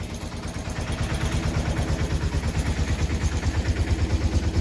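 Single-cylinder air-cooled Deutz diesel engine of a 1970s Case roller compactor idling, with a steady rapid beat of about eight firing pulses a second.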